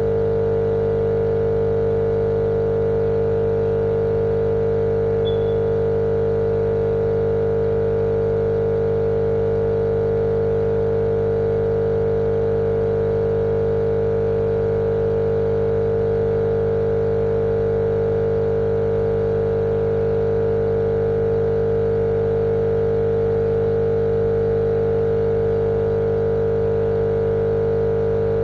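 Steady, unchanging mechanical hum with a strong fixed pitch, played as a continuous white-noise track for lulling a baby to sleep.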